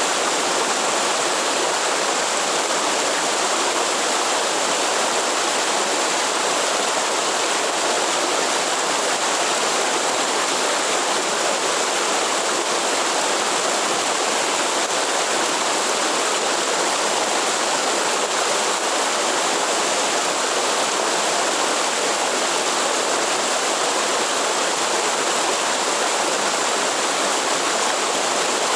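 Waterfall and rushing stream water, a steady even rush with no change.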